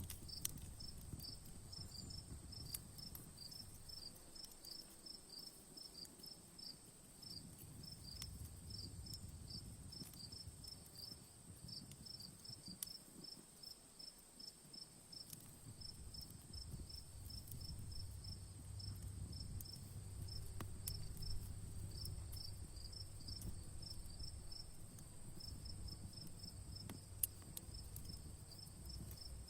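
Crickets chirping in a fast, regular rhythm over a steady high insect hum, with a few sharp pops from a crackling campfire and a low rumble.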